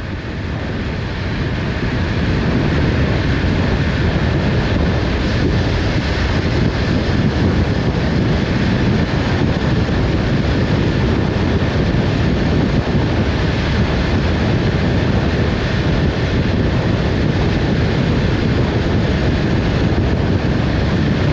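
Motorcycle riding at speed: wind rushing over the microphone with engine and road noise underneath, building over the first couple of seconds and then steady.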